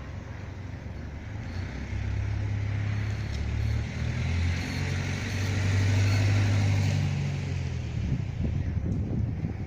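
A road vehicle passing by, its low engine hum and tyre hiss swelling to a peak about six seconds in, then fading.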